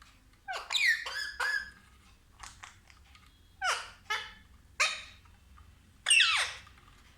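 Pet parrot giving a series of short, shrill calls with falling pitch, in separate bursts, the loudest near the end.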